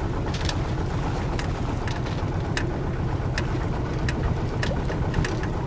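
Small sailing yacht under way: a steady low rumble with wind on the microphone, and light sharp ticks about every half second to a second.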